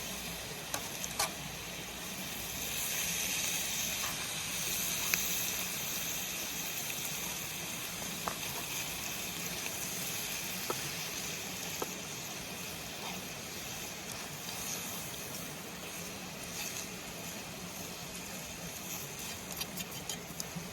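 Food sizzling in a pan over a campfire: a steady hiss with scattered sharp pops and crackles.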